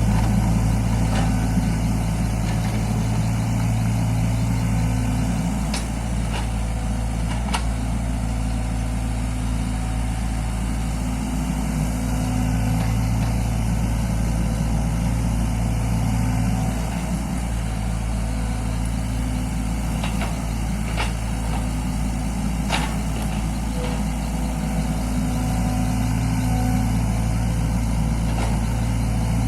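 Mini excavator's engine running steadily, growing louder and then softer over spans of several seconds as the machine works. A few faint clicks come through.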